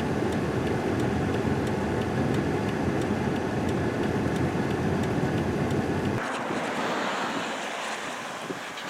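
Steady low rumble of a car driving, with wind noise. About six seconds in the low rumble cuts off abruptly, leaving a thinner hiss.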